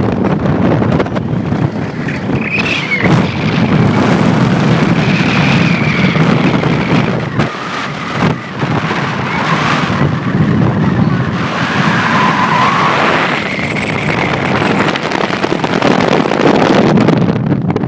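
Wind buffeting the microphone, a loud steady rush that surges and dips with the gusts.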